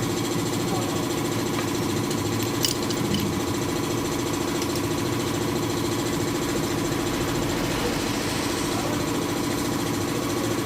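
Small motorcycle engine running steadily at idle, an even mechanical hum, with one sharp click about two and a half seconds in.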